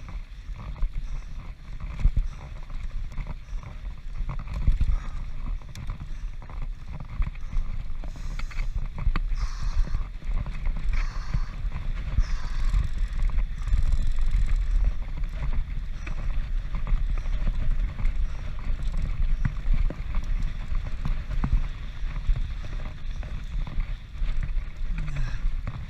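Transition Patrol mountain bike descending a rough course at race speed: a constant low rumble of tyres and wind, with frequent rattles and knocks from the bike over bumps and a brief stretch of harsher hiss about a third of the way in.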